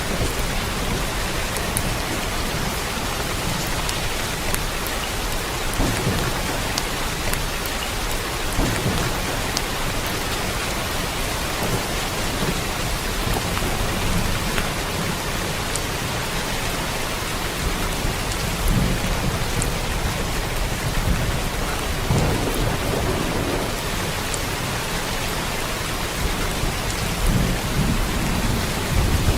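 Steady rain falling in an even hiss, with low rumbles swelling now and then underneath.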